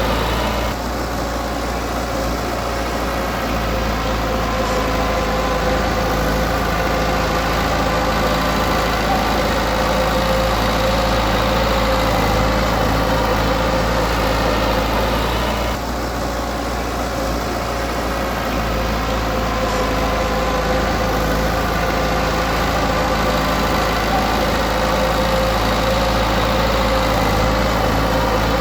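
Komatsu D20P bulldozer's diesel engine running steadily at a low, even speed, easing off briefly about a second in and again about halfway through.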